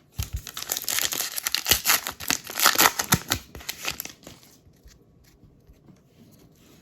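Wrapper of a trading card pack being torn open and crinkled, a dense crackling for about four seconds that stops abruptly.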